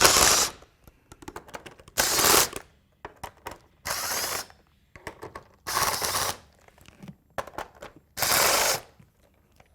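Socket wrench ratchet with an 8 mm socket on an extension, clicking in five quick half-second spells about two seconds apart as the bolts holding the engine's blower cover are backed out, with light clicks and taps between.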